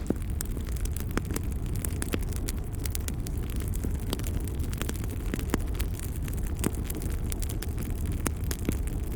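Wood fire crackling: frequent irregular snaps and pops over a steady low rumble of the burning fire.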